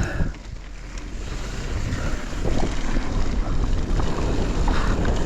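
Wind rushing over the microphone of a rider-mounted camera during a mountain bike run, getting louder over the first few seconds as speed builds and then holding steady.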